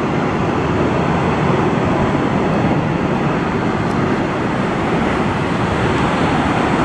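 Jet engines of a United Boeing 737 airliner passing close by, giving a loud, steady rumble that builds just before and holds throughout.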